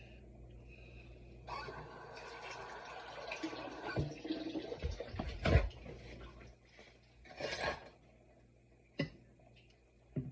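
Kitchen work sounds: a few seconds of running or splashing liquid, followed by several knocks of dishes and a short rustle.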